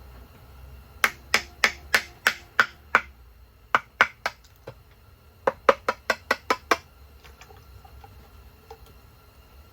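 Sharp metallic clicks from hand tools working on engine parts: three runs of quick, even clicks, about three a second, with short pauses between runs.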